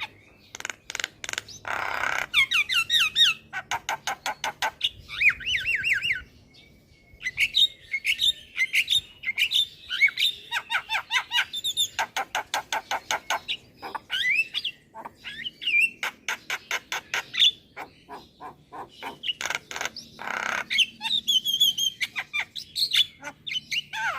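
Javan myna singing a varied, busy song. Rapid runs of clicking notes alternate with harsh squawks and quick whistled notes that slide up and down, in phrases with short pauses between them.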